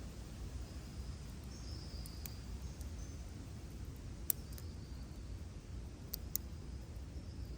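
Wood campfire burning with a low steady rush and a few sharp crackles and pops a second or two apart, the loudest about four seconds in.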